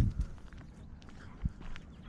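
Footsteps on a walk, with a loud low thump right at the start and another about a second and a half in.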